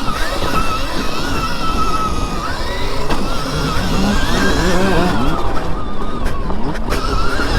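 Dirt bike riding on a motocross track: a steady high whine that wavers with the throttle, over heavy wind rush on the microphone.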